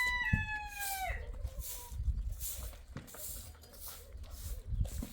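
A rooster crowing, the crow falling away and ending about a second in. After it comes a regular hissing scrape about twice a second over a low rumble.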